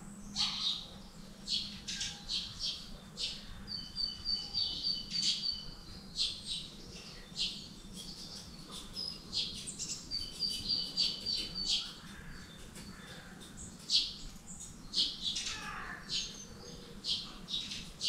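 Small birds calling in bare trees: many short, sharp chirps throughout, with two quick runs of repeated high notes, over a faint steady low hum.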